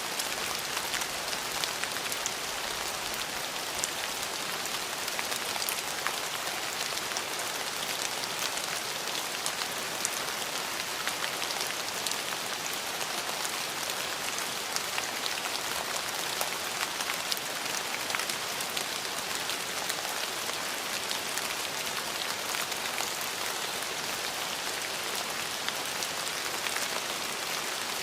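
Steady rain falling, an even hiss with many individual drops pattering on surfaces.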